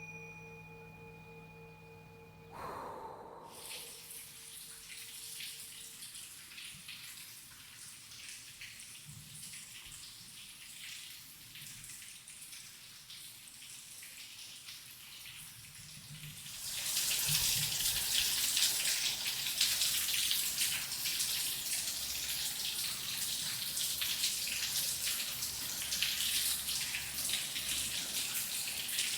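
Steady rain with dense pattering drops, at first moderate, then suddenly much heavier from about halfway through. A fading chime tone opens the sound in the first few seconds.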